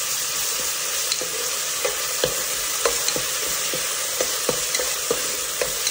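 Onions, green chillies, mint and ginger-garlic paste sizzling steadily in hot oil in an open pressure cooker, while a metal spoon stirs and scrapes the pan with irregular clinks about once or twice a second. The paste is being fried until its raw smell is gone.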